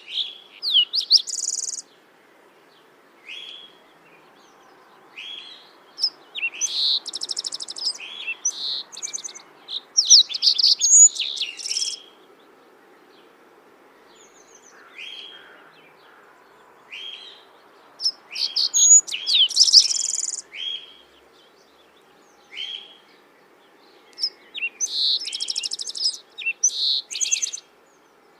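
A songbird singing in bouts of high chirps and fast trilled notes, each bout lasting a few seconds, with pauses of a few seconds between them.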